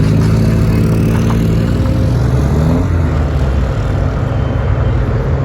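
A loud car engine running: a deep, steady drone whose pitch shifts slightly about halfway through.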